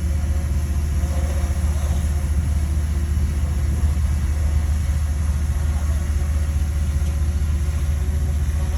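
Heavy diesel engine of earth-moving machinery running steadily, a low continuous rumble.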